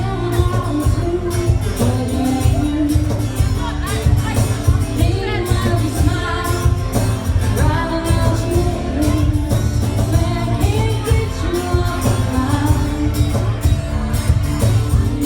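A country band playing live, with a strong bass line, a steady beat and a melody line over it.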